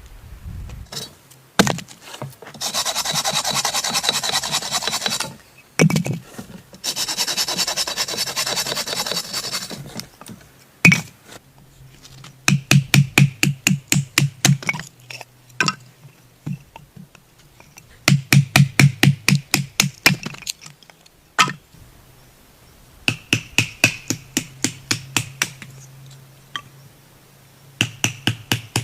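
Hand work on wood: two bouts of fast rasping strokes, each a few seconds long, then several runs of quick, regular knocks at about six a second.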